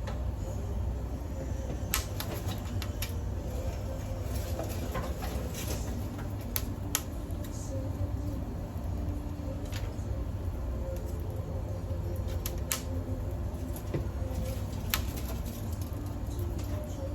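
Small twigs burning in a cold wood-fired pizza oven, crackling with sharp pops every second or two over a steady low rumble.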